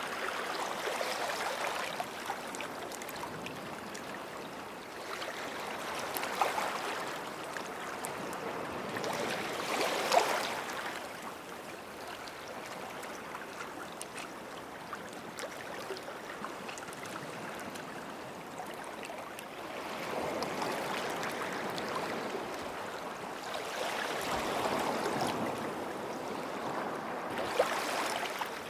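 Small sea waves washing onto the shore and drawing back, the rush of water swelling and easing every few seconds, with a sharper splash about ten seconds in.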